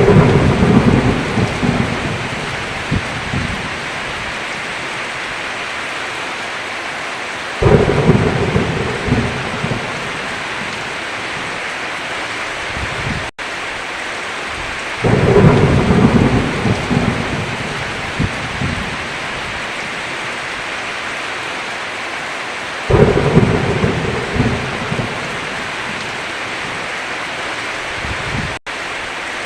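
Steady heavy rain with four deep rolls of thunder, one about every seven and a half seconds. The rain cuts out for an instant twice.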